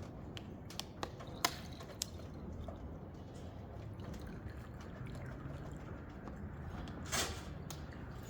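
Several light clicks and taps in the first two seconds, then a brief scrape about seven seconds in, over steady low background noise: small parts and tools handled while hoses are refitted to a kerosene heater's pump.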